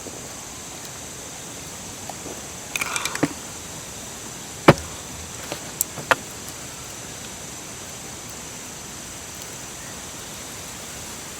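A steady high-pitched hiss, with a short cluster of light clatters about three seconds in and three sharp clicks or knocks over the next few seconds, the first of them the loudest.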